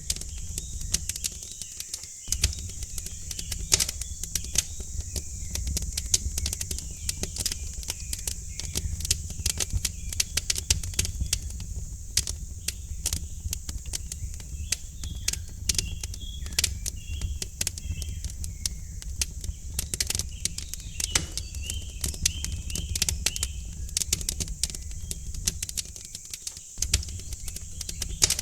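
Wood fire crackling in a fireplace: dense, irregular pops and snaps over a steady low rumble of the flames. Faint small birds chirp in the background, mostly in the middle stretch.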